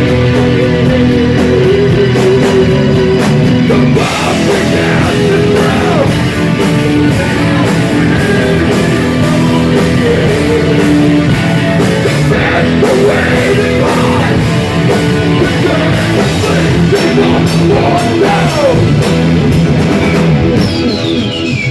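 Live rock band playing loud: electric guitar and bass over a drum kit, with the cymbals and drums filling out about four seconds in, and a falling pitch glide near the end.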